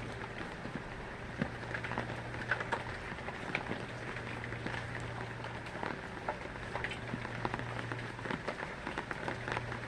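Heavy rain falling on a surface: a steady hiss with many separate drops tapping irregularly, over a steady low hum.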